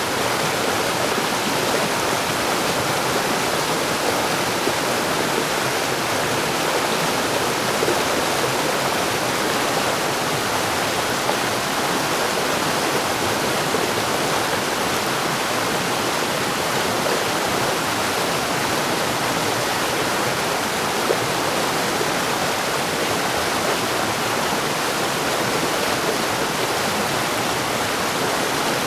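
Mountain stream rushing over rocks, a steady even wash of water with small splashes.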